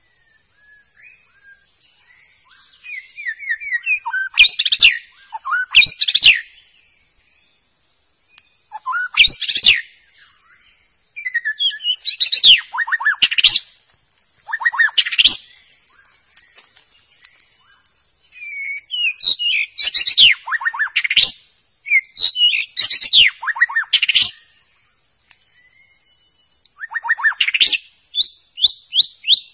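White-rumped shama singing: loud phrases of quick, repeated sweeping notes and trills, each lasting a few seconds, broken by short pauses. A steady high-pitched buzz runs underneath.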